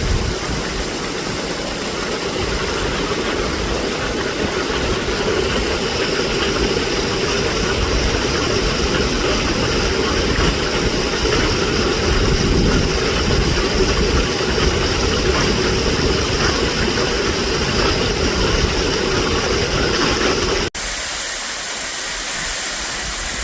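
Steady rushing of a waterfall's falling water, with a deep rumble under it. About three-quarters of the way through it cuts off abruptly to a quieter, thinner rush of water with less rumble.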